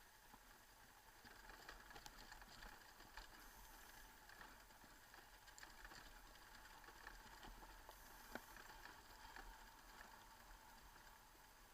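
Near silence: a faint steady hiss with a few tiny clicks.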